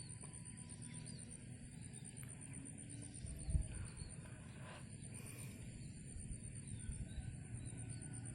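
Outdoor rural ambience: a steady high-pitched trill, faint scattered bird chirps and a low rumble, with one dull bump about three and a half seconds in.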